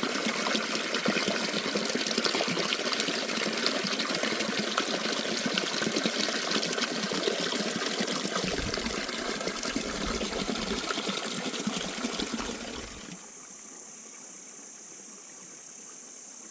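Rushing water running steadily and loudly. About 13 seconds in it cuts off suddenly to a much quieter steady hiss.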